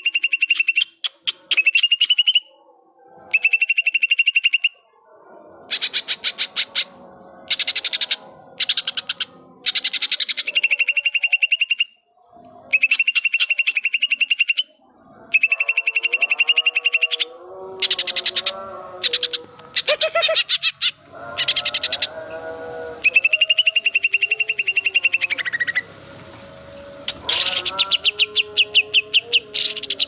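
Caged green leafbird (cucak ijo) singing continuously in repeated runs of very rapid trilled notes on one high pitch, broken by short pauses. Lower, warbling phrases come in around the middle. The song is filled out with mimicry of the kapas tembak.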